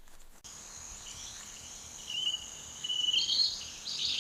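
Rainforest ambience: a steady high insect trill that starts about half a second in, with bird chirps joining in the second half.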